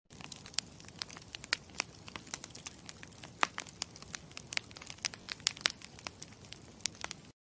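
Campfire crackling: many irregular sharp pops and snaps of burning wood over a low steady hiss. It cuts off abruptly near the end.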